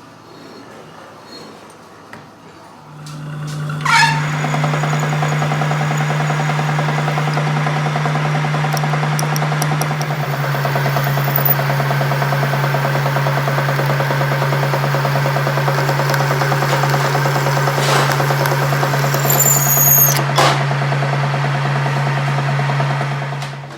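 Arc welding building up metal on a broken pinion: a steady electrical hum with dense crackling from the arc, starting about three seconds in and cutting off just before the end. The hum drops slightly in pitch about ten seconds in.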